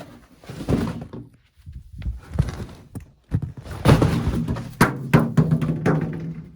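A run of knocks and thunks as objects are handled and moved about, busiest in the second half.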